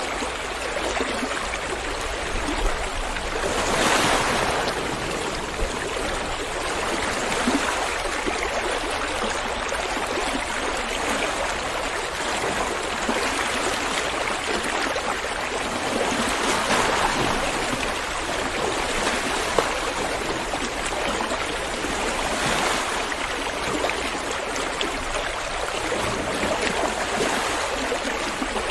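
A river running over rocks: a steady rush of water that swells a little louder a few times.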